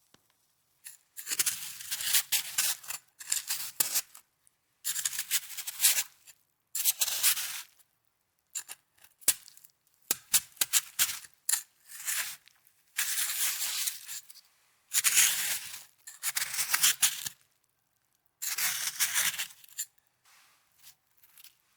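Snow crunching close to the microphone in about a dozen separate crisp bursts, each about a second long, with short pauses between them.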